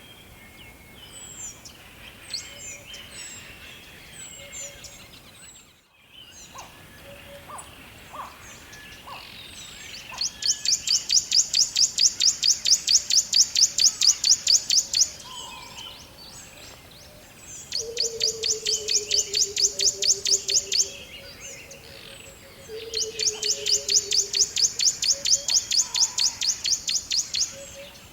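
Forest birdsong: scattered high chirps, then three loud, rapid, high trills of several seconds each. Under the second and third trills runs a lower whistle that slowly falls in pitch.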